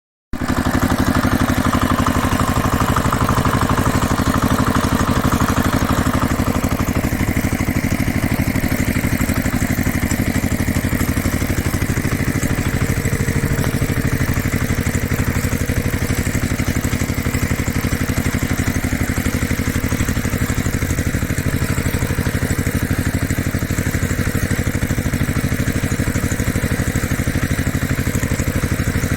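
Small engine running steadily at idle with a fast, even firing beat.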